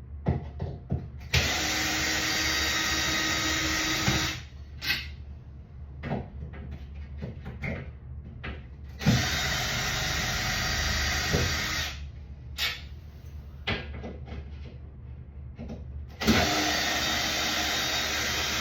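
Power drill-driver running in three bursts of about three seconds each, backing screws out of a shower door's wall track, with small clicks and knocks between the runs.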